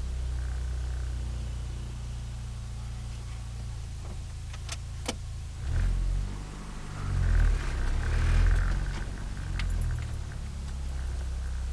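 Turbocharged Nissan Micra engine heard from inside the car while driving: a steady low drone, with two sharp clicks about five seconds in and louder low swells from about six seconds on.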